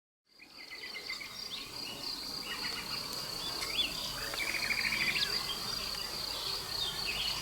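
Outdoor woodland ambience fading in: a steady high insect buzz with birds chirping and trilling over it.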